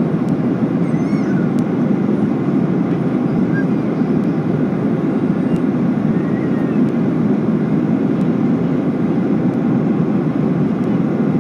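Steady cabin noise inside a Boeing 737-800 in flight during its descent: the even hum of the CFM56-7B jet engines and the rush of air along the fuselage.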